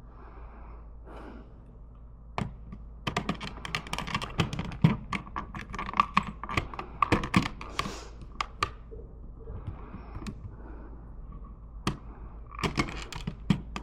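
Rapid runs of light clicks and taps from hands handling small hard parts, in two spells: one from about three to nine seconds in and a shorter one near the end.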